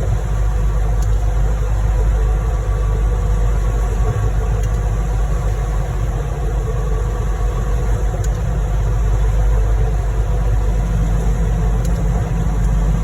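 Heavy diesel engines of a concrete pump truck and ready-mix truck running steadily as a low rumble while concrete is pumped out of the hopper.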